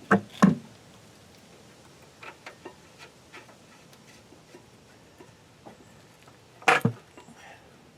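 Sharp metallic clicks and clinks of hand tools and brake hardware being handled: a close pair at the start, a few faint ticks in the middle and another close pair near the end.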